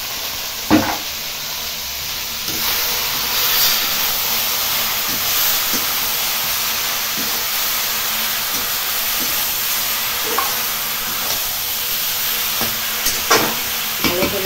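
Taro greens sizzling in oil in a metal kadai, the sizzle growing louder about two and a half seconds in. A metal spatula stirs them, knocking against the pan once near the start and scraping it near the end.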